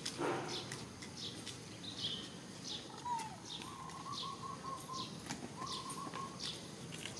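Birds chirping: short high notes that slide downward, repeated every half second or so, with two runs of quick repeated lower notes in the middle. A short louder sound comes just after the start.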